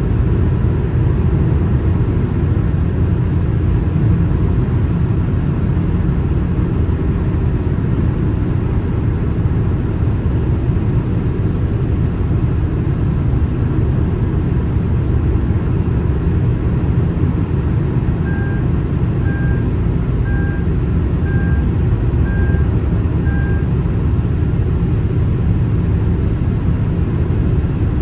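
Steady rumble of a car driving on a highway, road and engine noise. About two-thirds of the way through, six short beeps sound about a second apart.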